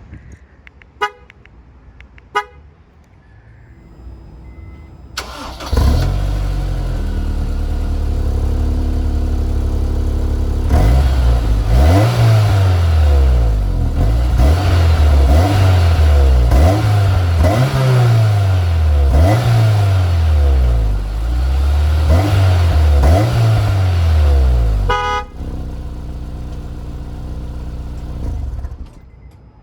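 Two sharp clicks, then the 2007 Honda S2000's 2.2-litre VTEC four-cylinder engine starts about six seconds in and idles. It is then revved over and over in quick blips, the exhaust note rising and falling about every second and a half, before settling back to a steady idle and stopping near the end.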